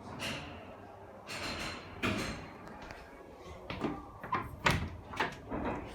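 A few sliding swishes, then a quick string of sharp knocks and clacks about four seconds in.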